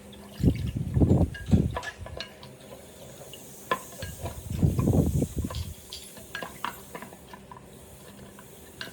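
Hard parts being handled and worked: scattered clicks and light taps, with two spells of low rubbing or scraping, one about half a second in and one about four and a half seconds in.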